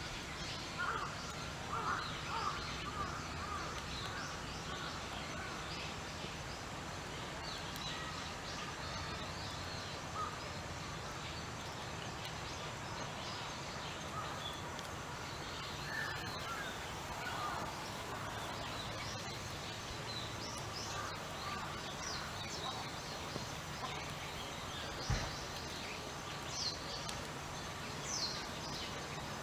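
Birds calling here and there, short scattered calls, over steady outdoor background noise.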